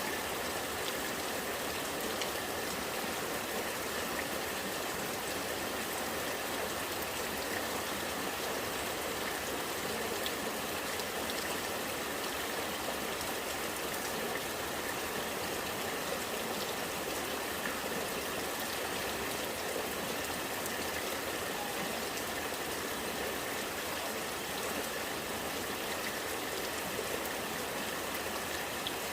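Rainwater running and gurgling in a steady flow, with light drips and pattering mixed in.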